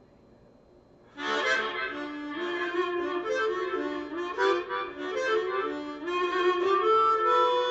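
Harmonica playing a blues phrase of changing notes. It comes in suddenly about a second in, after a brief near-silent pause, and carries on with some notes held.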